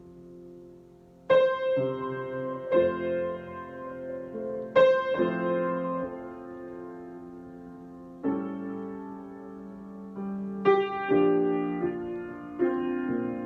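Solo piano improvisation: slow chords struck a few seconds apart, six in all, each left to ring and fade before the next.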